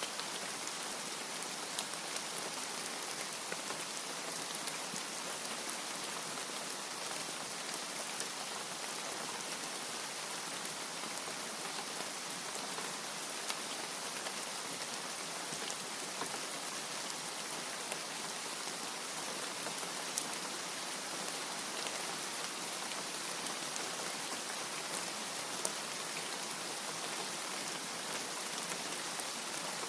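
Steady rain falling, an even hiss with a few sharper drop taps scattered through it.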